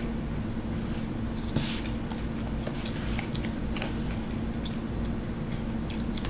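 A person chewing food with wet mouth sounds and a few faint clicks, over a steady low hum.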